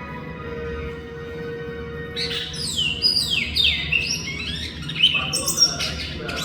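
Bicudo (great-billed seed finch) singing: after a quiet start, about two seconds in it begins a run of quick whistled notes, each sliding down in pitch, repeated through to the end.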